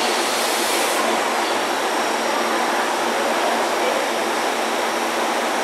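Steady rushing hum from a Keihan 3000 series electric train standing at an underground platform, with a brief hiss in the first second.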